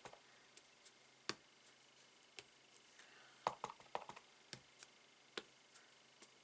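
Scattered light taps and clicks of a mounted rubber stamp being inked and pressed onto cardstock, with a small cluster of quick taps around the middle.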